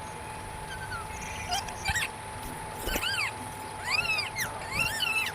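Pet Alexandrine parakeet (pahadi tota) giving a run of about six short calls, each rising and falling in pitch, the first about a second and a half in and the rest coming faster toward the end.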